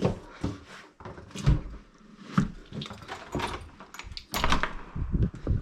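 A door being handled: a string of irregular knocks and clicks.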